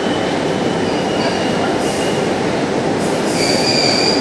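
JR East 701 series electric train pulling into a station platform, a steady rolling rumble with thin high squealing tones that grow stronger near the end as it slows.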